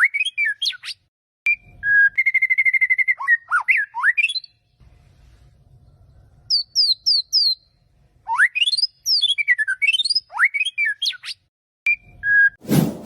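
White-rumped shama (murai batu) singing: loud whistled notes sweeping up and down, a fast trill on one pitch, and a run of short falling notes in a quieter stretch midway. A sudden loud clang comes right at the end.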